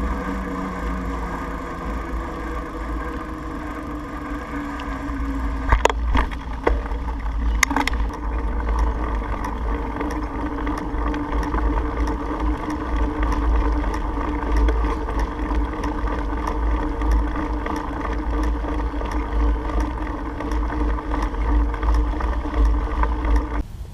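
Wind rumbling on the microphone during a bicycle ride, over a steady droning hum, with a couple of sharp clicks about six and eight seconds in.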